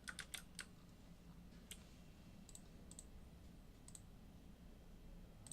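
Faint clicks of a computer mouse during software editing: a quick run of three in the first second, then a few scattered single clicks.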